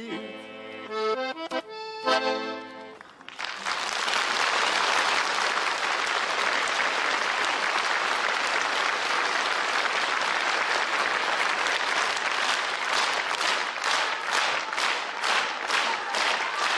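The last chords of a song played on accordion, then an audience applauding from about three seconds in, thinning into separate claps near the end.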